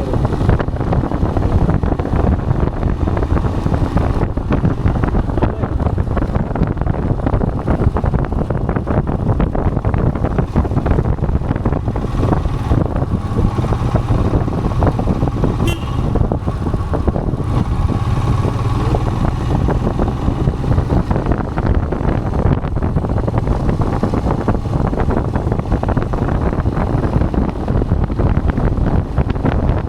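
Royal Enfield Himalayan motorcycle running steadily at road speed, its engine and road noise heard from the moving bike. Around the middle, a steady higher tone joins for several seconds.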